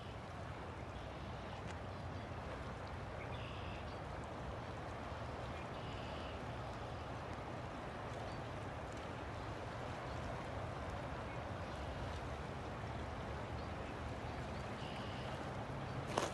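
River water flowing, a steady even rush, with short faint high chirps every couple of seconds and one sharp click near the end.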